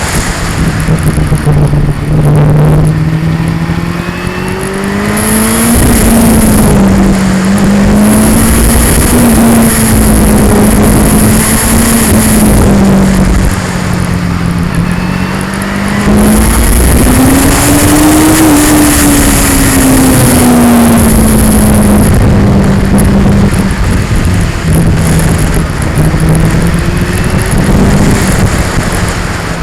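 2002 Yamaha R6's 600 cc inline-four engine under way, its pitch rising and falling with the throttle through a run of bends, highest about two-thirds of the way through. Heavy wind and vibration noise on the onboard action camera's microphone runs under it.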